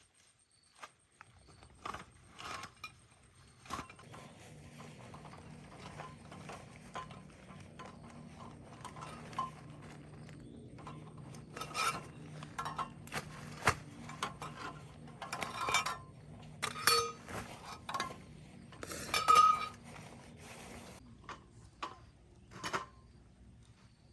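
Dishes and utensils being handled, with scattered clinks and knocks, the loudest a cluster about nineteen seconds in. A steady low hum runs underneath from about a second in.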